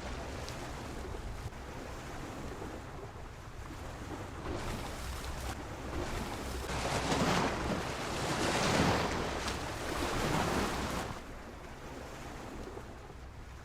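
Sea waves washing against a pier: one surge of surf builds through the middle, is loudest for a few seconds, then falls away. A steady low wind rumble on the microphone runs underneath.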